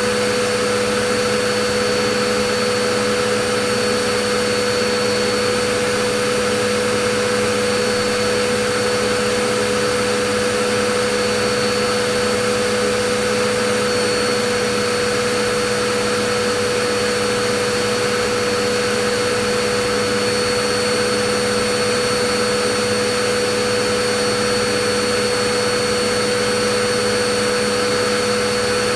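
Vacuum cleaner running continuously: a steady rushing whine with a fixed hum and a high tone that never change.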